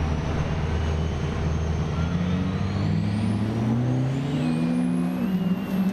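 Diesel pickup truck engine accelerating hard, its pitch climbing steadily over several seconds, with a high whine rising alongside it.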